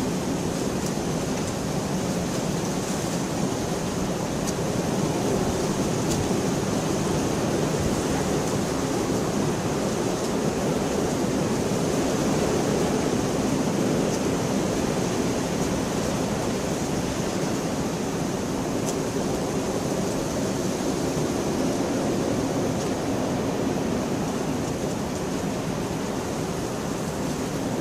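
Rain falling steadily, an even hiss with a few faint drop ticks.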